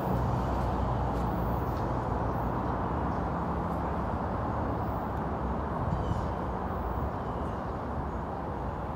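A diesel train at the station running with a steady low rumble that slowly fades. A few faint bird chirps can be heard over it.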